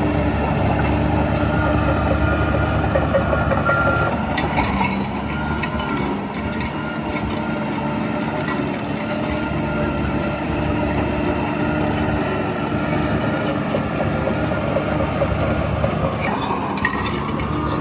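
Heavy diesel earthmoving engine running steadily, with a few short metallic clanks about four seconds in and again near the end.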